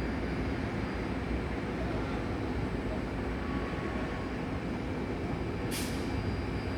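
Steady low rumble of outdoor airport ambience, with a brief hiss about six seconds in.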